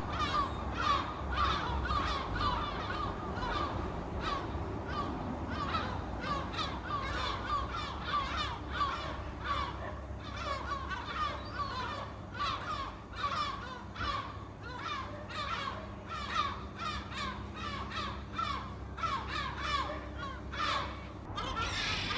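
A flock of seagulls calling, many short cries repeating and overlapping several times a second.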